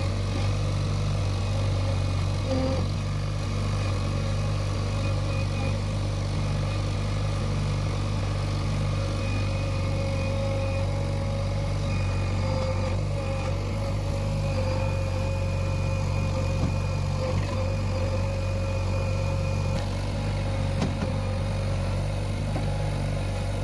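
Backhoe loader's diesel engine running at a steady, even speed.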